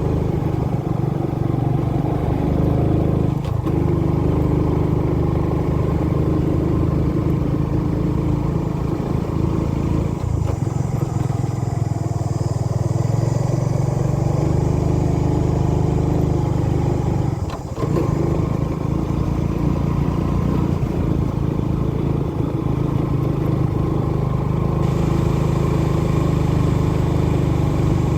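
Motorbike engine running steadily under way, with a few brief dips in the engine note, the clearest about two-thirds of the way through.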